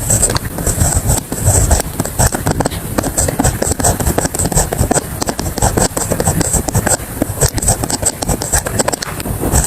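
Pen writing on paper: a continuous run of quick, short strokes.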